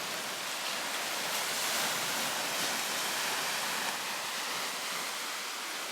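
Steady rushing hiss of small sea waves washing onto the shore, the sea settling down a little after a storm.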